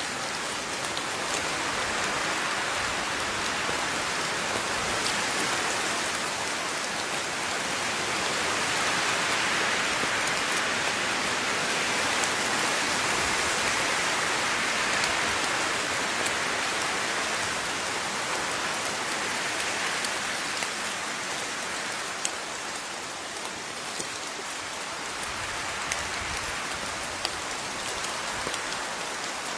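Steady rain falling, a dense even hiss of drops with scattered individual drips, swelling a little in the middle and easing slightly near the end.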